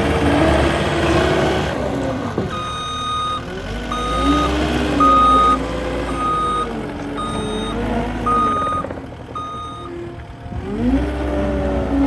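Cat 259D3 skid steer backing up: its reverse alarm beeps seven times, about once a second, over the diesel engine, whose pitch rises and falls as the machine moves.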